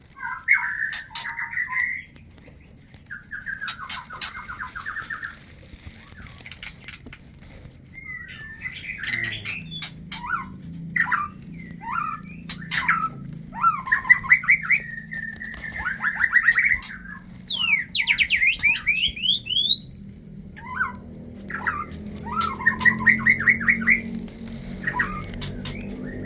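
White-rumped shamas (murai batu) calling: repeated short chattering, churring phrases with sharp clicks between them, and a fast run of high sweeping whistles about two-thirds of the way through.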